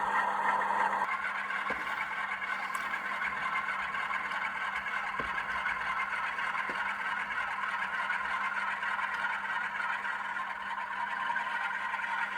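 Sound decoder in a Class 47 model locomotive playing its diesel engine sound through a small sealed speaker: a steady running drone whose tone shifts about a second in, with a few faint clicks.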